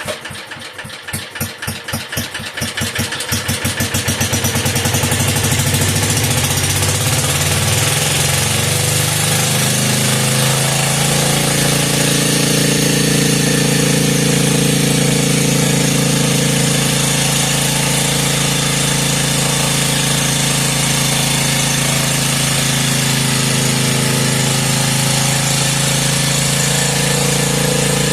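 Antique McCulloch generator's engine firing up and slowly gathering speed, its pitch rising over about ten seconds as the heavy generator spins up like a flywheel. It then runs steadily at speed without hunting or surging, its carburetor freshly tuned.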